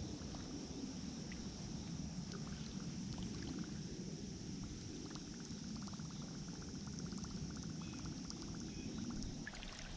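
Bass Pro Shops Pro Qualifier fishing reel being cranked, a fast faint ticking for a few seconds in the middle, over a low steady rush of water around the kayak.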